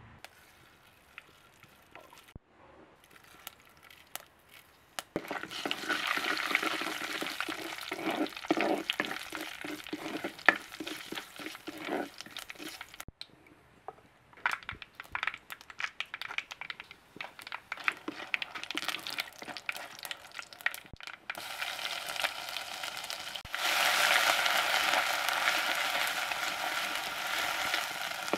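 Chopped garlic, onion and dried red chillies frying in oil in a clay pot and stirred with a wooden spoon, a steady sizzle that is loudest over the last few seconds. Before that, quiet spells alternate with bursts of crackling and clicks.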